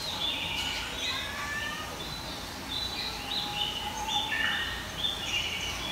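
Birds chirping, with many short, high calls coming one after another and overlapping, over a steady low hum.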